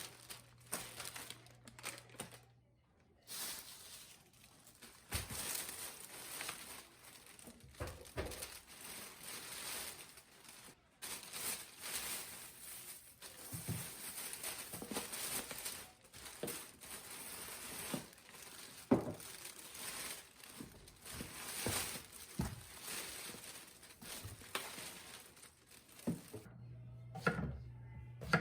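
Continuous rustling and crinkling, with scattered small knocks.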